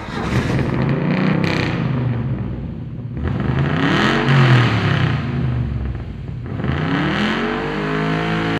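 Sport motorcycle engine revving. The pitch rises and falls about four seconds in, then climbs again near the end.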